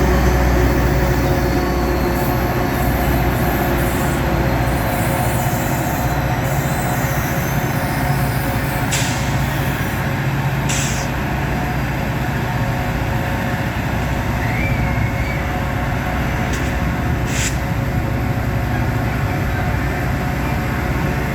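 Caltrain commuter train at the station, running with a steady low rumble and hum. A few short, sharp noises cut through it about nine, eleven and seventeen seconds in.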